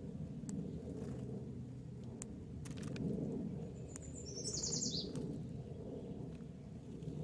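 A bird's short call: a quick run of high chirps stepping downward about four seconds in, over a steady low rumble.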